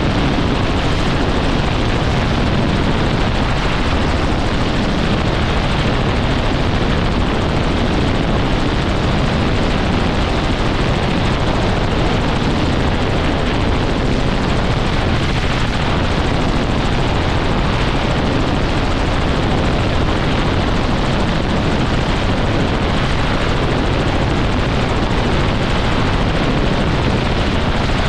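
Helicopter running: a loud, steady wash of rotor and engine noise that holds unchanged throughout.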